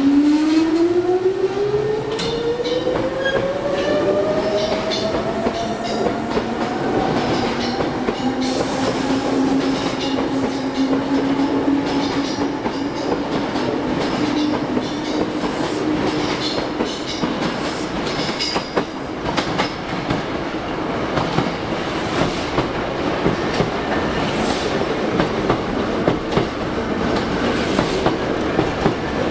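Maroon Hankyu electric commuter train pulling out: its motor whine climbs in pitch over the first several seconds and then levels off, under a steady rumble and the clatter of wheels over rail joints as the cars roll past.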